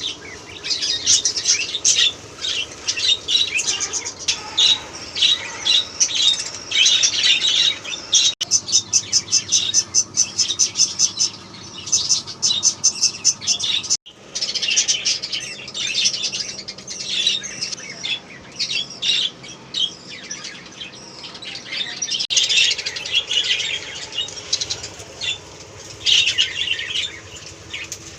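Budgerigars chattering with many quick high chirps. About a third of the way in there is a fast, even run of pulses, roughly six a second, lasting a few seconds.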